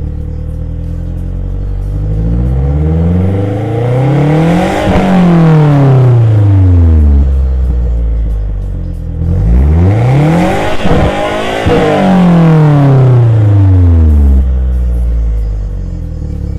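2013 Mazdaspeed3's turbocharged 2.3-litre four-cylinder revved twice from idle, heard through its exhaust. Each rev climbs in about two seconds, and then the engine falls back slowly to idle. The second rev is held briefly at the top.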